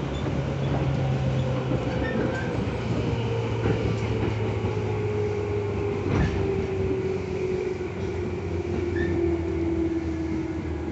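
Tobu 10000 series electric train running, with its motor and gear whine falling steadily in pitch as the train slows, over rumbling wheel and rail noise. A single knock from the wheels comes about six seconds in.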